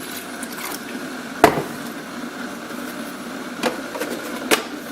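Three sharp knocks from the Keurig coffee maker and its water reservoir being handled, the loudest about a second and a half in and two lighter ones near the end, over a steady hiss.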